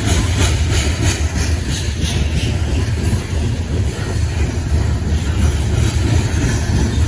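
Freight train rolling past: a steady low rumble, with evenly spaced clicking of wheels over rail joints during the first few seconds.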